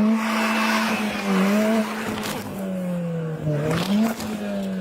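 Car engine revving hard and held at high revs, its pitch wavering, dipping briefly and then sagging slowly. Tyres squeal and spin during the first second or so.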